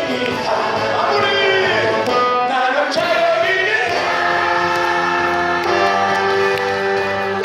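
A roomful of people singing a trot song together over instrumental accompaniment. From about four seconds in, the voices hold long steady notes.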